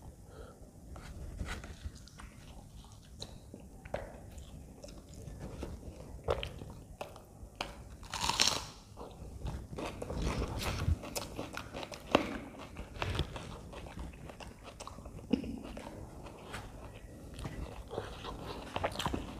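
A person chewing and biting aloo paratha (potato-stuffed flatbread), with many small mouth clicks throughout. About eight seconds in there is a louder, brief noisy rush.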